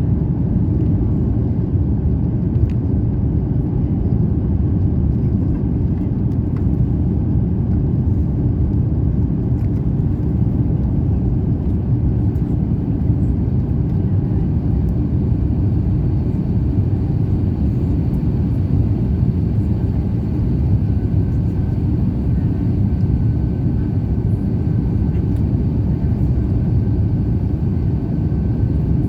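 Steady low rumble inside the cabin of an Airbus A350-900 as it runs on its Rolls-Royce Trent XWB engines, with a faint steady whine above the rumble.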